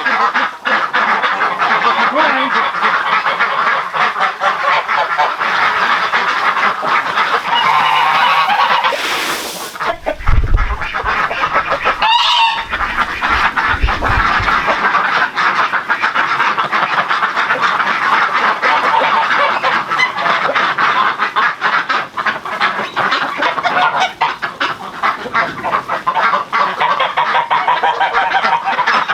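A flock of domestic geese and ducks honking and quacking continuously, many calls overlapping. A few low thumps come near the middle.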